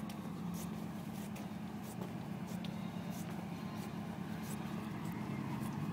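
Car engine idling steadily, a low even hum, with faint short high-pitched ticks scattered over it.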